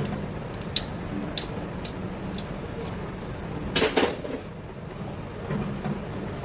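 Metal parts clinking and knocking: a few light clicks, then a louder metallic clatter about four seconds in, over a steady low hum.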